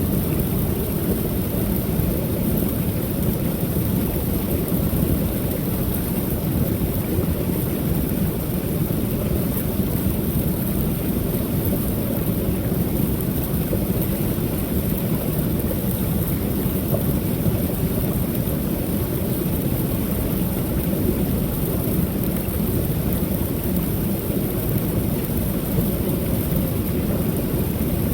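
Creek waterfall: a steady, unbroken rush of falling water, deep and low-pitched.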